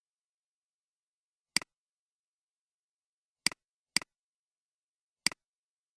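Four computer mouse clicks, each a press and quick release, the middle two close together, with silence between.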